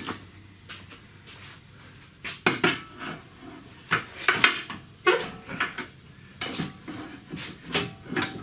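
Steel pry bar clanking and scraping against the van's steel suspension and frame while levering the lower control arm into place: irregular metal knocks with short ringing, coming in small clusters.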